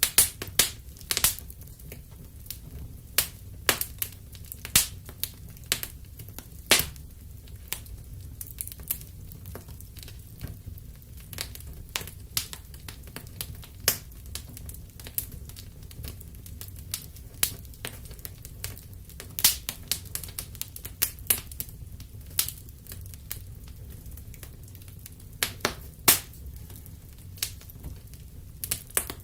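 Fireplace fire crackling: irregular sharp pops and snaps, a few much louder than the rest, over a low steady rumble.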